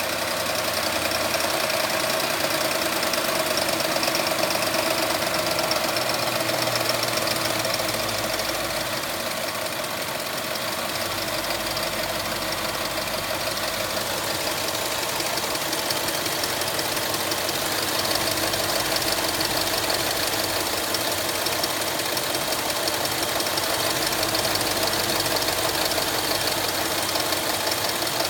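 A 2010 Range Rover L322's 5.0-litre supercharged V8 idling steadily, with a fast ticking rattle in its running. The owner is unsure whether the tick is a timing chain guide, the supercharger, or just the normal sound of this engine.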